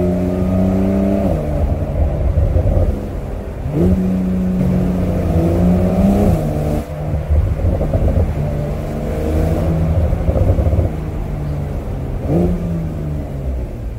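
Porsche 911 (992) Cabriolet's twin-turbocharged flat-six running at road speed, heard from the open-top cabin. The engine note climbs slowly and then drops back sharply several times.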